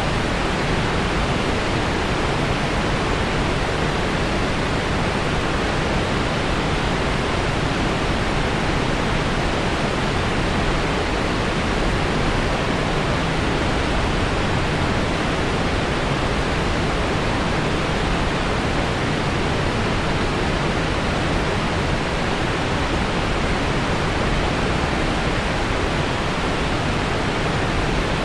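Waterfall: falling water rushing in a steady, even roar of noise with no changes.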